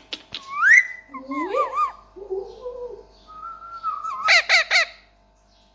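Ringneck parakeet whistling and warbling. It gives a rising whistle, then a run of wavy warbled notes and a held whistle, then a quick series of wavy, warbling notes about four and a half seconds in.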